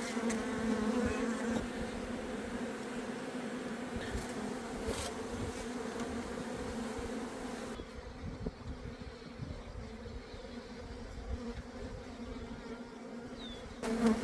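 Many honeybees buzzing at an opened hive, a steady drone of wingbeats. The colony is strong and crowded after wintering.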